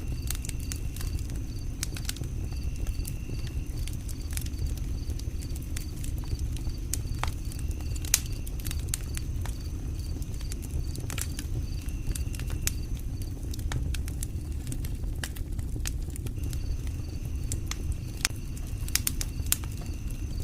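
Campfire crackling: irregular pops and snaps over a low steady rumble. A high chirp pulses evenly, about three times a second, in the background.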